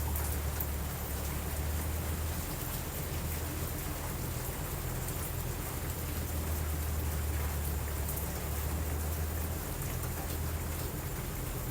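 Steady rain falling on a surface, with a continuous low rumble beneath it that swells and eases slightly, and faint scattered crackles.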